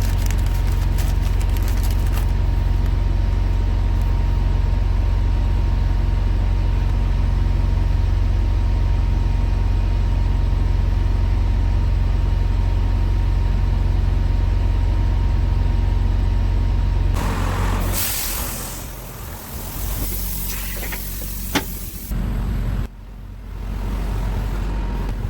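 Semi-truck diesel engine running, a steady low drone heard from inside the cab. About 17 seconds in comes a long, loud hiss of air from the truck's air brakes, lasting several seconds, with a sharp click near its end.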